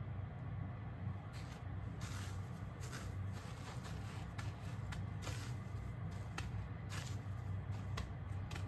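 Kitchen handling noises: scattered rustles and light clicks over a steady low hum.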